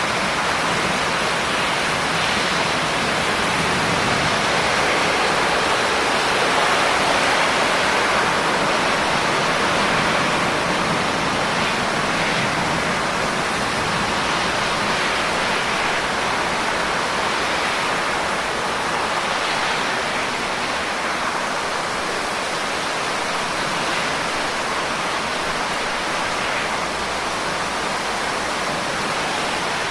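Steady heavy rain: a dense, even hiss of countless drops with no distinct individual impacts.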